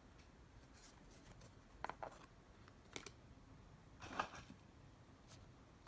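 Quiet handling of the unboxed collectibles: a few faint clicks and rustles about two, three and four seconds in, against near-silent room tone.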